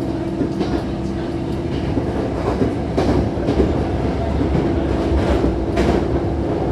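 Hankyu Takarazuka Line electric train running, its wheels clicking irregularly over rail joints over a steady hum and rumble.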